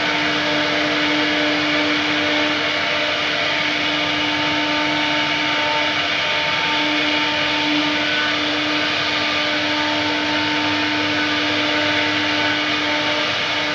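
CNC wood router running steadily, its spindle cutting into wood: a dense, continuous machining noise with steady whining tones.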